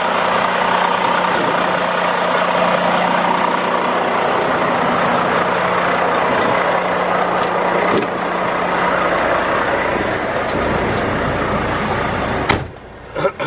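A Volvo D13 diesel truck engine idling, with a steady rushing noise over it. Near the end there is a sharp knock, and after it the sound is much quieter.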